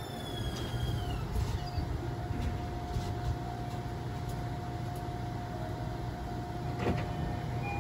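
JR Kyushu YC1 series hybrid diesel-electric railcar coming to a stop at a platform: its motor whine falls in pitch and fades out about a second in, leaving a steady low hum and a held tone as it stands. A sharp click sounds near the end.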